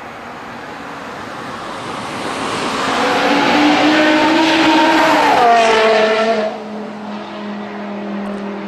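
BMW M6 running through an iPE valved performance exhaust: the engine note builds to a loud peak, then the pitch falls sharply about six and a half seconds in and settles into a lower steady note.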